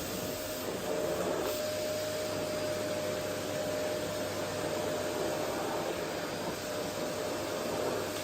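Vacuum cleaner running steadily: an even rush of air with a constant whine.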